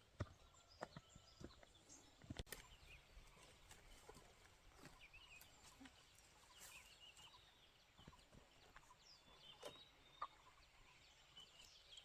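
Faint clucking and calls of chickens, with a few scattered sharp clicks and knocks.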